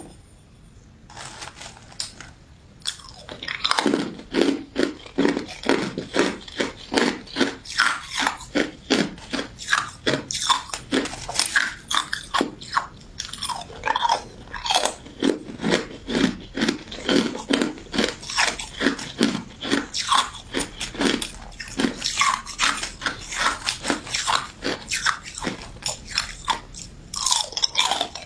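Close-miked crunching and chewing of a crystal ice dessert with jelly pieces: rapid crisp crunches, a few a second, beginning about a second in and growing louder soon after.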